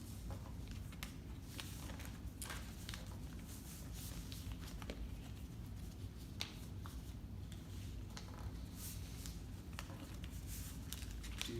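Sheet of paper being folded and creased by hand: soft rustles and scattered crisp taps as the corners are folded into the centre, over a low steady room hum.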